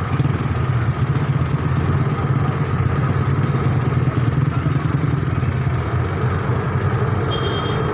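Motor vehicle engine running steadily, a continuous low rumble, with a brief thin high-pitched tone near the end.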